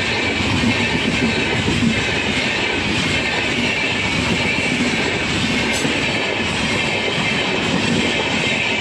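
Coaches of a passenger express train passing close by at speed, a steady, unbroken noise of wheels running on the rails.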